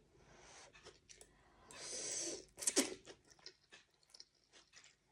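A person eating beef noodle soup close to the microphone: wet chewing with short mouth clicks, a half-second slurp about two seconds in, and a sharp smack just after it.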